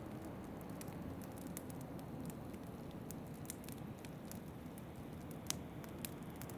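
Wood fire crackling in a fireplace, with scattered sharp snaps and one louder pop about five and a half seconds in, over a steady low rush of wind.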